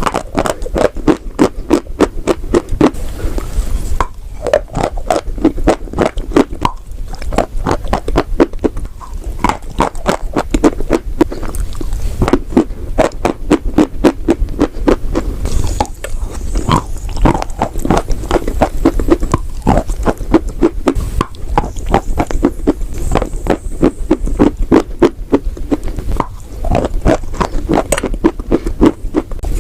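Close-miked chewing of chalk and clay: a fast, unbroken run of dry crunches, several a second, with brief lulls now and then.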